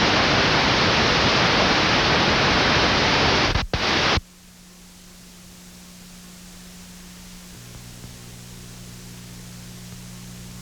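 Loud hiss of television static for about four seconds, with a brief dropout just before it cuts off suddenly. Dead air follows: a low, steady electrical hum with faint hiss. The broadcast audio is failing during a station technical difficulty.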